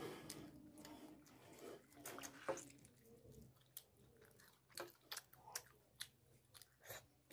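A person chewing a mouthful of rice and chicken curry with quiet, wet, open-mouthed smacks and lip clicks at an irregular pace. The clicks come thick in the first couple of seconds, then more spaced out.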